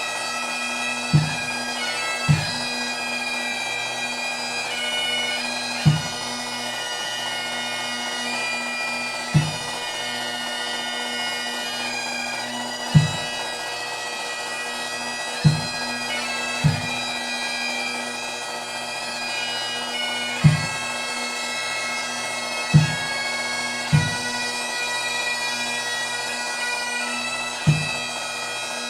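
Highland bagpipes playing a tune over their steady drones, with a bass drum struck about a dozen times at uneven intervals.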